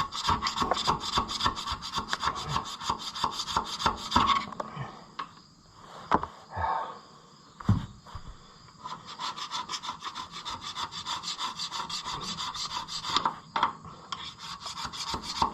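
Hand scraper working back and forth over the gasket surface of a Ferguson 30 engine block, scraping off stuck-on old gasket material. It comes in two runs of fast, even strokes separated by a pause of a few seconds with a few scattered scrapes.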